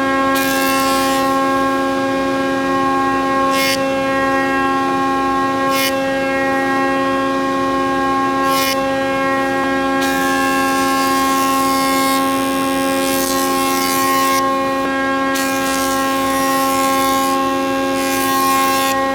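An electric power tool's motor running at a steady, unchanging pitch, with a few brief hissy bursts on top, such as when the tool bites into wood.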